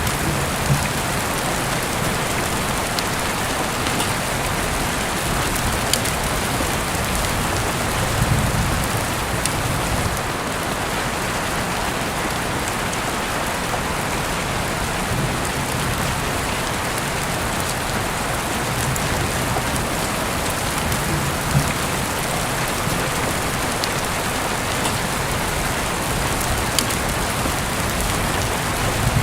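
Steady rain falling on surfaces, an even hiss with scattered sharp drip-like ticks and a soft low swell about eight seconds in.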